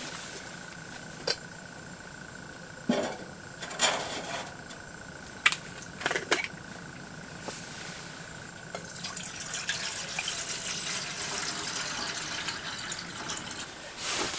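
Water being poured into a container, after a few scattered knocks and clicks, over a faint steady high tone.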